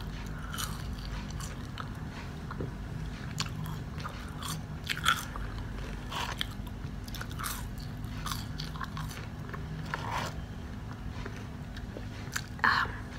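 Crunchy food being bitten and chewed: irregular short crunches and clicks over a low steady hum.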